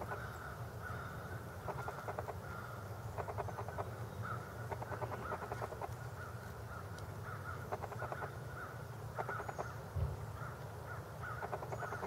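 Faint bird calls: short notes repeating every second or so, with a few brief rapid series.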